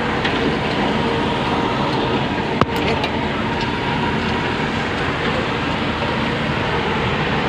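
Engine running steadily at a constant speed, with one sharp click about two and a half seconds in.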